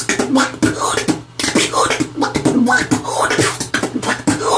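Human beatboxing in a house-music groove, with quick drum-like strokes and exhaled 'duck sound' quacks worked into the beat.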